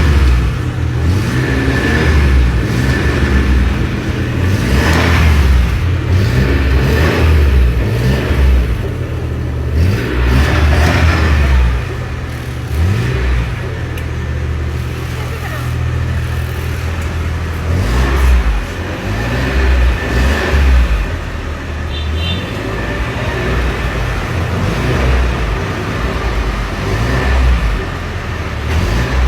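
An old car's engine revving as the gas pedal is pumped, its pitch rising and falling again and again, running more evenly for a few seconds around the middle.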